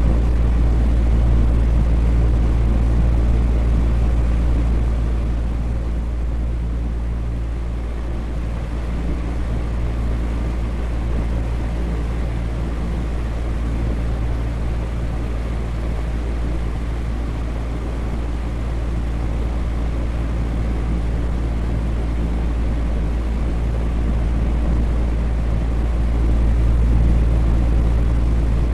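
Electric fan running steadily: a low hum under an even rush of moving air.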